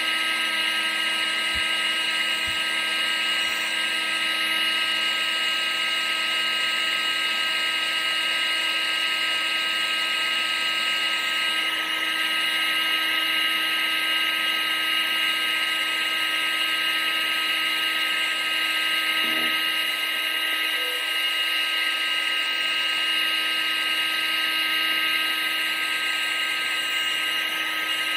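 Vacuum cleaner running steadily, its motor giving a constant high whine over a rushing hiss, used as white noise.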